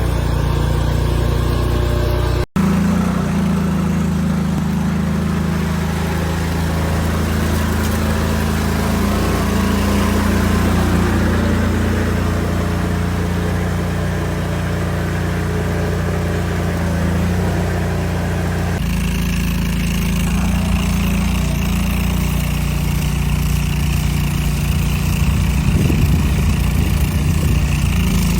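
Mini skid steer loader's engine running steadily. The sound cuts out for an instant about two and a half seconds in and changes abruptly at about nineteen seconds, as between separate takes of the machine at work.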